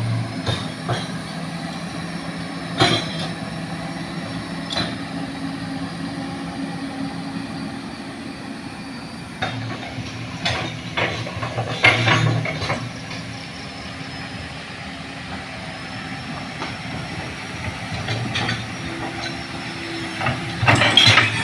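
Heavy diesel machinery running steadily, a low engine drone with sharp metallic clanks now and then, as heavy equipment moves up to push a leaning palm-fruit truck.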